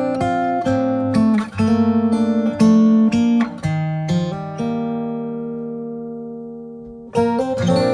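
Solo acoustic guitar playing a song's intro: plucked notes and chords, with one chord left to ring and fade for a couple of seconds about halfway through before the picking resumes.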